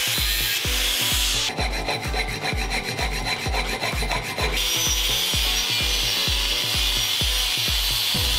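Metal-finishing noise on a cast aluminum club: an angle grinder grinding, then a hand file rasping over the metal from about a second and a half in, then steady grinding again. Background music with a steady thumping beat plays throughout.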